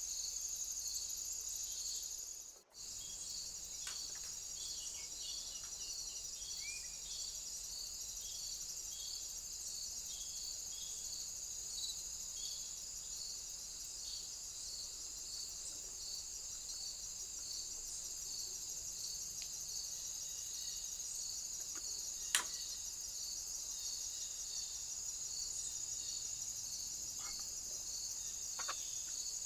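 Insects chirping: a steady high trill with a second, pulsing chirp repeating about once or twice a second beneath it. The sound drops out for a moment about two and a half seconds in, and a single sharp click comes about two-thirds of the way through.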